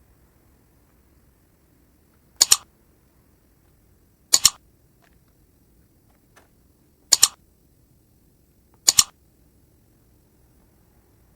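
Four sharp mechanical double clicks, each a quick pair of snaps, coming a couple of seconds apart over a quiet background.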